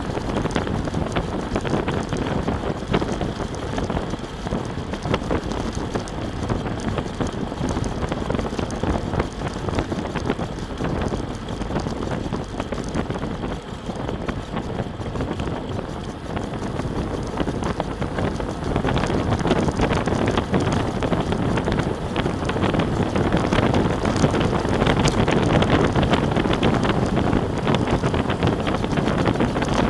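Wind buffeting the microphone: a dense, low rumbling noise that eases a little around the middle and grows louder in the second half.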